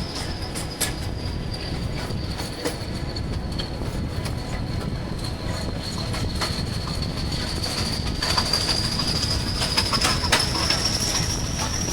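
Train running on rails, with a steady low rumble and a long high wheel squeal that slowly dips in pitch and then rises again. Sharp clicks come here and there, more of them later on.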